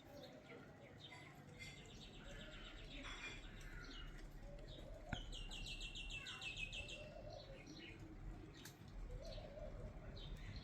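Songbirds singing faintly outdoors: a rapid high trill around two seconds in, then a louder trill of quickly repeated notes just after five seconds, with a single sharp click at its start.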